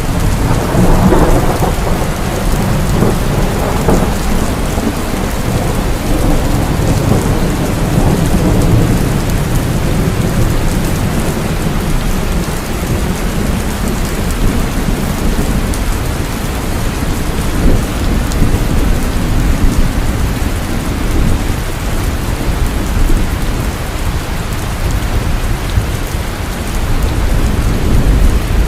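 Heavy rain falling steadily, with low rolling thunder underneath that swells in the first few seconds.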